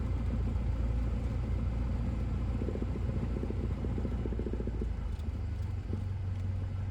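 Cessna 172S's four-cylinder Lycoming engine running with a steady low drone. About five seconds in, the drone settles into a steadier, lower note.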